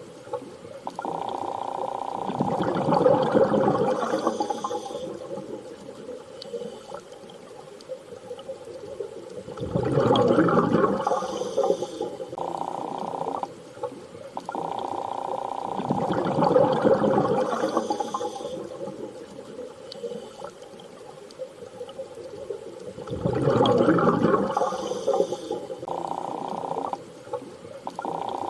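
Underwater-style ambience of swelling watery rushes over a steady hum, repeating about every seven seconds as a loop.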